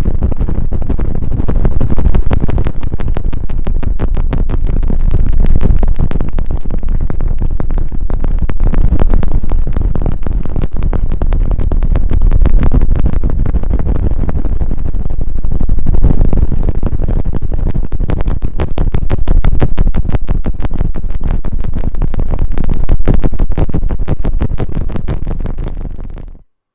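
ASMR trigger prop rubbed and scratched directly against the microphone: loud, dense crackling and scratching with a heavy low rumble, swelling and fading about every three and a half seconds, then cutting off suddenly near the end.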